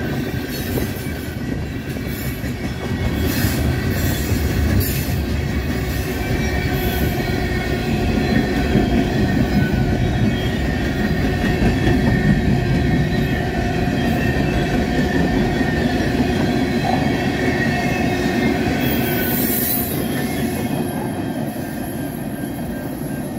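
Freight cars (tank cars and covered hoppers) rolling past: wheels rumbling and clacking over the rail, with a steady high-pitched wheel squeal. The squeal and rumble ease near the end as the last car goes by.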